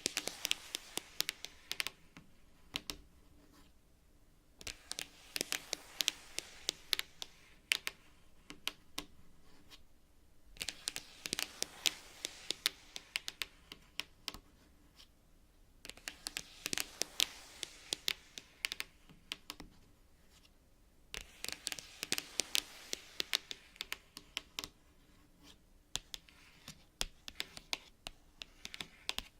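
Long natural fingernails tapping and scratching on cards: rapid runs of sharp clicks, in bursts of a few seconds with short pauses between them.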